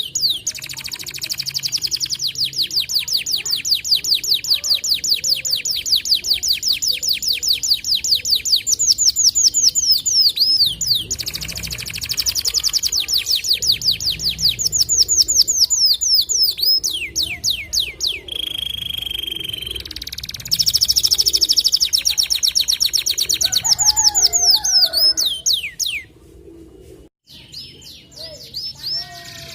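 White canary singing long, rapid trills: runs of high sweeping notes repeated about ten times a second, briefly broken by a steady held whistle past the middle. The song drops away near the end.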